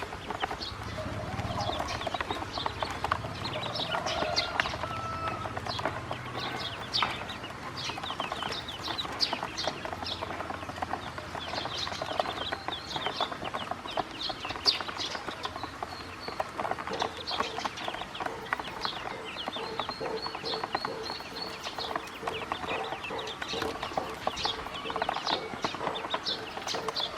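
A group of ducklings peeping without pause, many short high calls overlapping.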